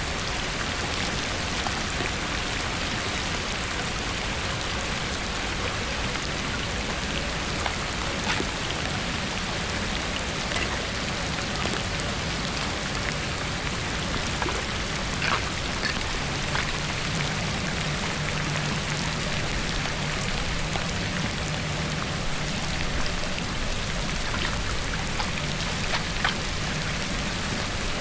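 Steady rain falling on a hard surface, with scattered separate drops ticking. A low hum joins from a little past the middle for several seconds.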